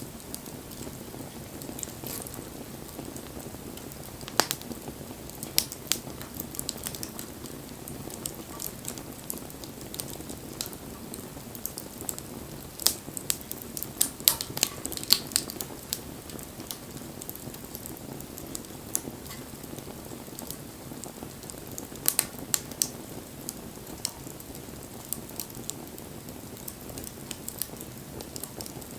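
Wood bonfire burning: a steady low rush from the flames, with sharp, irregular crackles and pops that come in clusters, busiest in the middle.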